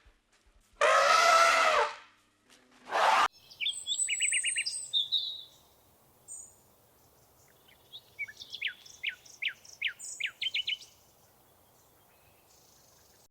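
Birds chirping: a cluster of short high chirps, then a run of quick falling notes, after two loud low animal calls at the start.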